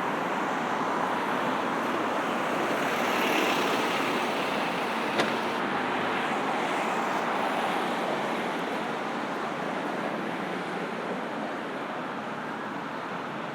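Steady road traffic noise: passing cars and engines in a continuous wash, with one sharp click about five seconds in.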